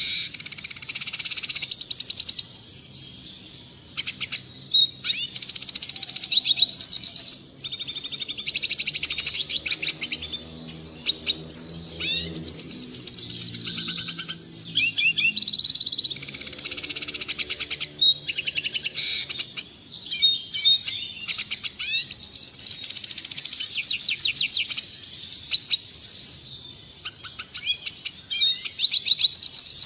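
Red siskin singing: a long run of rapid twittering phrases with fast trills and chirps, broken by brief pauses.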